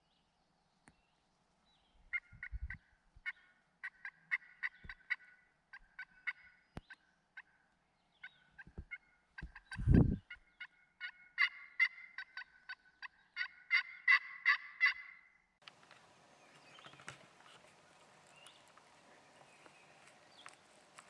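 Turkey calling: runs of short, quick, repeated notes at three to five a second, with pauses between the runs, and a loud low thump about ten seconds in. After about fifteen seconds the calling stops and gives way to a faint steady background hiss.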